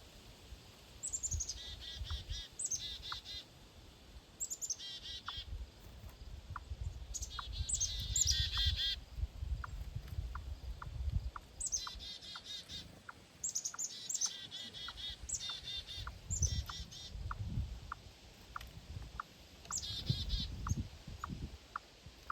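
A flock of blackbirds calling around a bird feeder: repeated bursts of squeaky calls that slide downward, several birds overlapping. A faint, regular tick about twice a second runs underneath.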